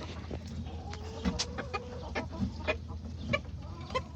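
Broody hens clucking in short, scattered calls, with one longer drawn-out note early on.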